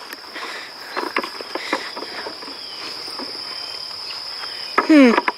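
Crickets in a meadow, a steady high-pitched trill. Scattered light taps and patter sound through it, and a short vocal sound falling in pitch comes near the end.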